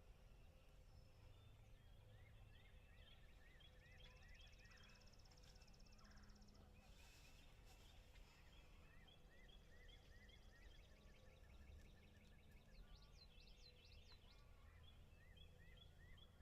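Faint woodland songbird chorus: many short, repeated rising chirps from several birds, with a buzzy trill about four seconds in, over a low steady rumble of open-air background noise.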